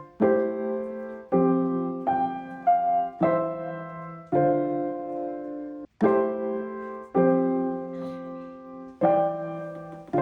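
Background piano music: slow, sustained chords struck about once a second, each ringing and fading.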